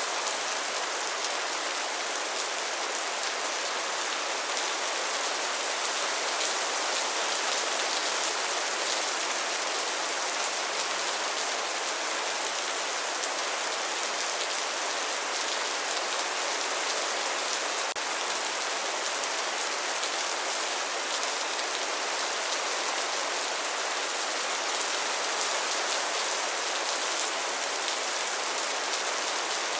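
Steady rain falling on a surface, a dense even hiss of drops without letup.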